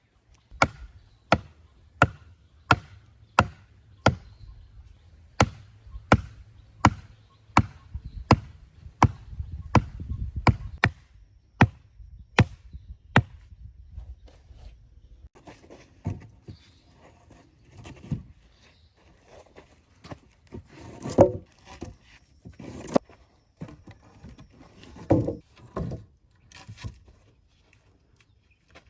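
Wood being chopped with a blade: steady, evenly spaced strokes, about three every two seconds, for roughly the first half. After that come scattered, quieter knocks and handling of wood.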